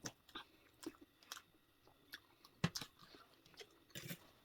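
Close-up chewing and eating sounds: wet mouth smacks and crunching clicks, with the loudest about two-thirds of the way through.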